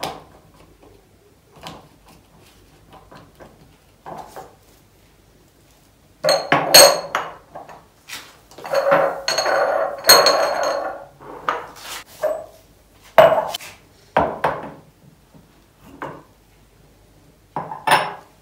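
Glass jars and kitchen containers being handled and set down, with a string of knocks and ringing clinks, busiest in the middle.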